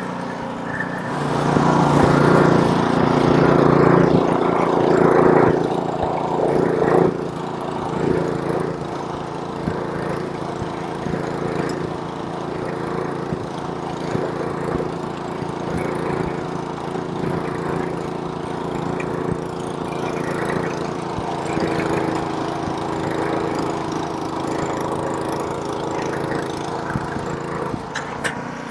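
Small-engine snowblower running steadily while clearing snow, louder for several seconds about a second in, then settling to an even engine drone with a hiss of thrown snow over it.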